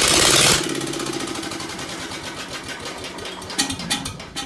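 Ford engine catching on a shot of ether. It is very loud for about half a second, then settles into a fast, even clatter that fades over the next few seconds as it dies out. The carburetor is badly out of tune.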